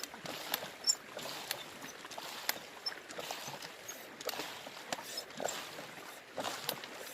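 Water splashing and sloshing in a shallow river, in uneven surges, with scattered sharp clicks and knocks.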